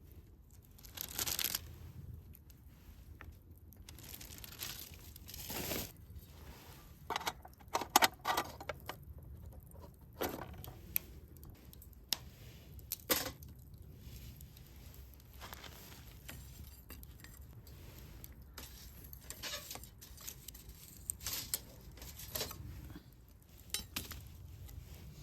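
Camp gear being handled: packaging or a bag rustling and crinkling, with light clinks of glass or tableware. The clinks come in a quick cluster about a third of the way in.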